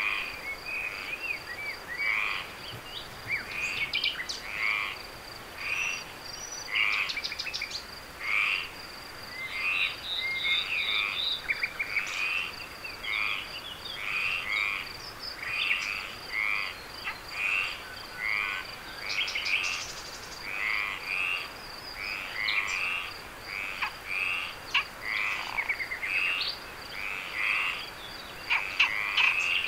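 Frogs calling at night, short croaking calls repeating about once a second, over a steady high-pitched insect trill.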